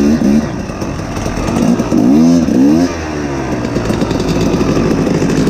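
Two-stroke dirt bike engine ridden hard, its pitch dropping off, then climbing and falling twice near the middle as the throttle is worked.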